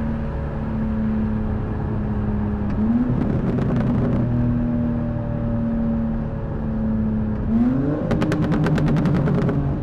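BMW M3 Competition's twin-turbo inline-six running on its stock exhaust at a moderate pace, its note jumping up quickly twice and easing down after each. A rapid crackle of exhaust pops near the end.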